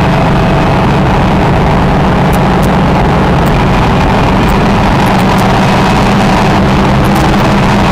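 Oval racing truck's engine heard from the onboard camera, loud and held at a steady pitch, with wind and road noise mixed in.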